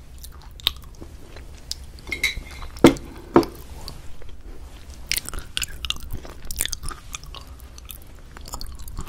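Irregular crisp crunches and clicks over a low steady hum, with two louder knocks about three seconds in and a quicker run of clicks a little after the middle.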